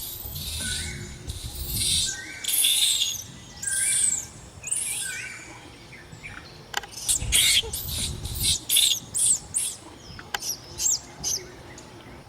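Short, high-pitched chirping calls, each rising and falling, in a run over the first few seconds. After a short lull comes a faster run of calls in the second half, with a low rumble partway through.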